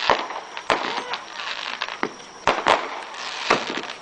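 Fireworks going off: about five sharp bangs from bursting shells, two of them close together past the middle, over steady crackling.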